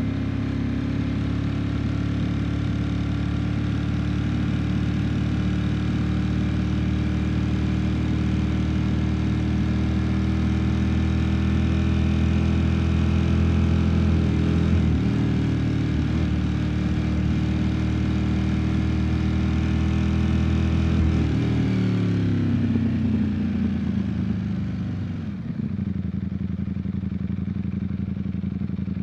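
Ducati Streetfighter V4 S motorcycle's V4 engine running at a steady cruise, with a brief break in its note about fifteen seconds in. Later the pitch falls as the bike slows, and the engine settles into a steady lower note near the end.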